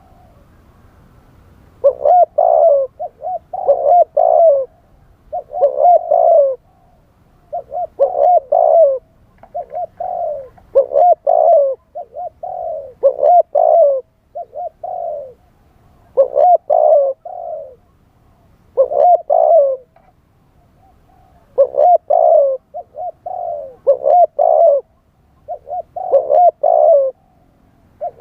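Spotted dove cooing: a wild-type call used as a decoy voice, repeating phrases of several coo notes, one phrase roughly every two seconds, starting about two seconds in.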